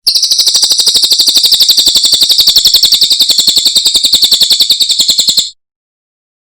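Cililin bird singing one long, rapid high trill of about ten notes a second, which stops abruptly near the end.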